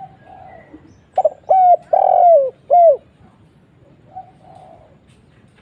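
Spotted dove (tekukur) cooing: a short stutter, then three coos, the third the longest and falling in pitch. Fainter coos come just before and after the main phrase.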